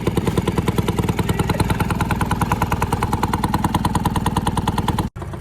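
A small engine running steadily with a rapid, even beat, about nine pulses a second; it stops abruptly near the end.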